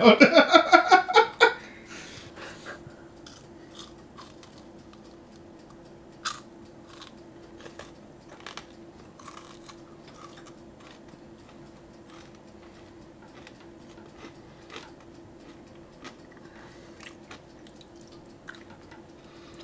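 Laughter for about the first second and a half, then a person chewing a battered deep-fried candy cane, its batter shell and the hard candy inside crunching between the teeth in scattered sharp cracks. The candy has set hard again as it cooled. A faint steady hum runs underneath.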